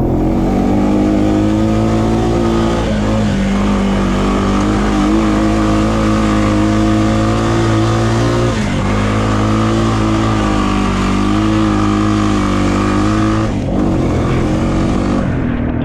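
A 2020 Honda Rubicon quad's engine running under throttle, its pitch wavering, with a brief dip about halfway through and another near the end.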